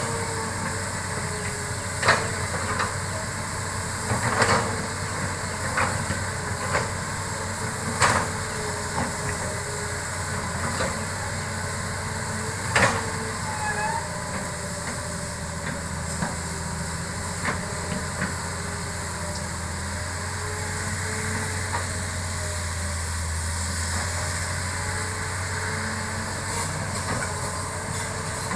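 Hitachi hydraulic excavator's diesel engine running steadily, with sharp metallic knocks at irregular intervals, a few seconds apart, as the machine works.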